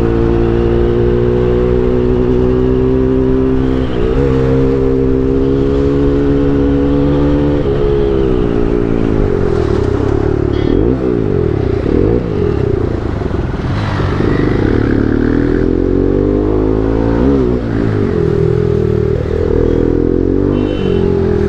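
Bajaj NS200's single-cylinder engine through an Akrapovic full-system exhaust, ridden hard at high revs. The note holds high and climbs slightly with a brief dip about 4 seconds in, then falls and swings up and down in pitch, with another dip about 17 seconds in.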